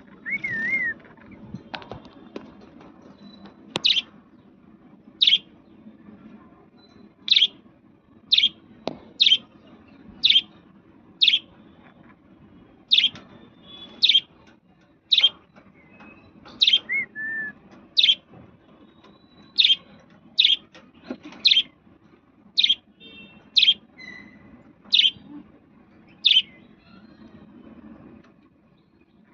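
A parrot calling with short, sharp, high chirps about once a second, some twenty in a row, with a brief warbling call in the first second and another midway.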